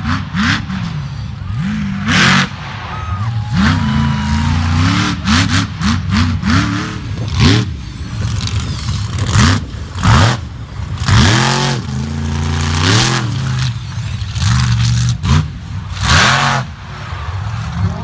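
Monster truck engine revved hard again and again, its pitch shooting up and dropping back in quick blips, with loud sudden bursts among them.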